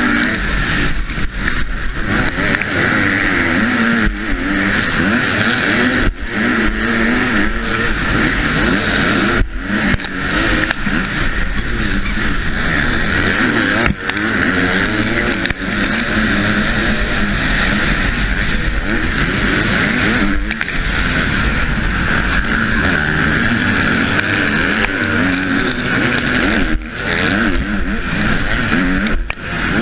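Husqvarna motocross bike's engine revving hard and falling back again and again under race riding, with short breaks in the sound every few seconds as the throttle is shut or a gear is changed. Heavy wind rush over the helmet-mounted microphone runs under it.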